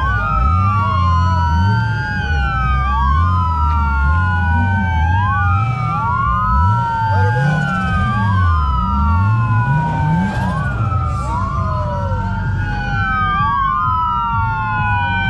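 Two police sirens wailing at once, out of step, each tone falling over about a second and then jumping back up, over a low engine rumble.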